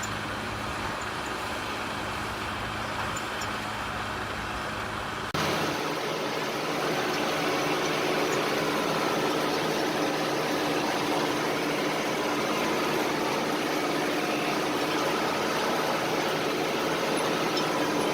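Heavy machine engine running steadily. About five seconds in it cuts abruptly to another louder, noisier running engine.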